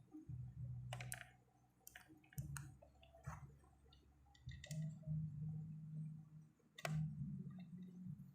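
Scattered light clicks and taps of tools and parts during work on a CRT television's circuit board, over a low hum that comes and goes.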